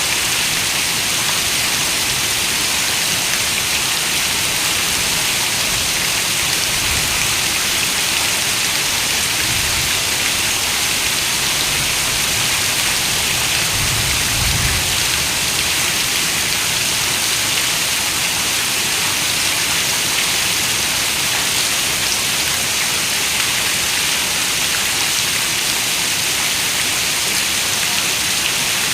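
Steady rain on a window, an even hiss of many drops, with a few faint low rumbles about halfway through.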